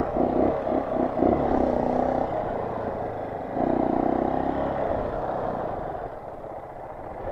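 Honda CRF230 dirt bike's single-cylinder four-stroke engine running under throttle, pulsing quickly in the first second or so. It surges again about three and a half seconds in, then eases down toward idle near the end.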